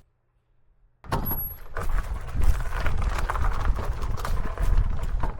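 About a second of silence, then low wind rumble on the microphone and a steady run of quick clattering knocks, as of an e-bike and its mounted camera rattling over a rough trail.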